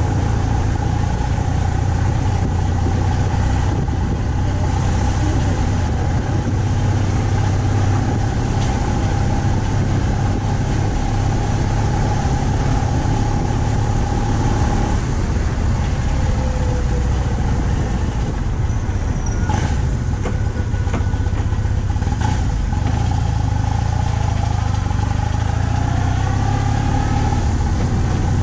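BMW R 1200 C's boxer-twin engine running steadily while cruising, a constant low rumble under a steady haze of road and wind noise.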